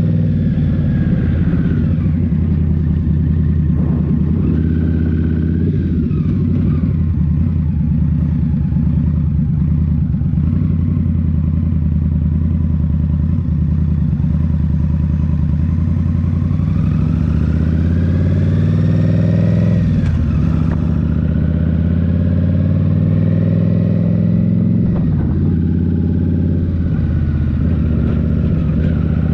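2023 Indian Scout Rogue's 69 cubic-inch V-twin with a Rinehart slip-on exhaust running under way, its revs rising and falling with the throttle. Near the two-thirds mark the engine pitch climbs steadily for a few seconds, then drops suddenly.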